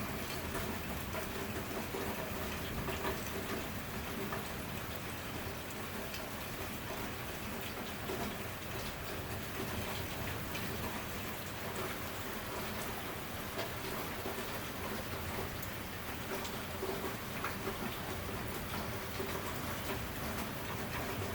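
Steady rain falling, with many small, scattered drop ticks.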